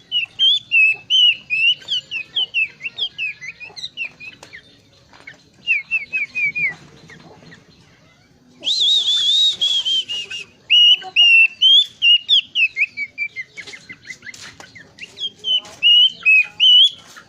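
Plenduk semak songbird singing in rapid runs of short whistled notes that sweep in pitch, varied from phrase to phrase, with two brief pauses. One passage in the middle is louder and rougher than the rest.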